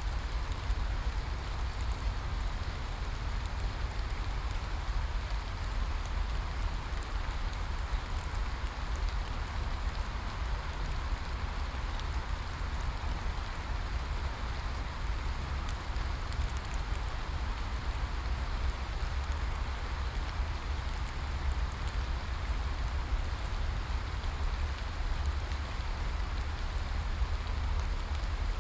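Steady rain falling, an even hiss with a continuous low rumble beneath it and scattered small drop ticks.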